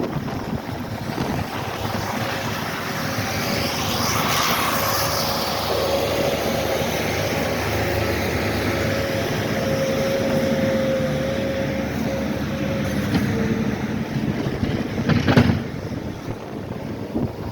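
A heavy vehicle engine running steadily, with a thin steady whine over it for most of the stretch. One loud knock or clank comes about fifteen seconds in.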